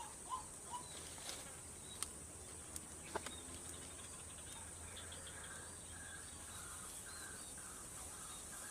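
Steady high-pitched drone of insects such as crickets, with faint short calls and a few sharp clicks in its first half.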